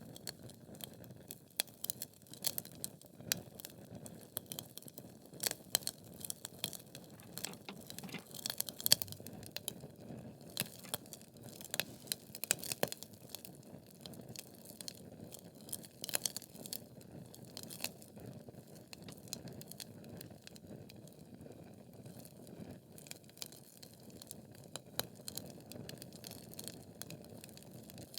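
Wood logs burning in a fireplace, crackling with many irregular sharp pops over a low, steady sound of the flames; the loudest pop comes about nine seconds in.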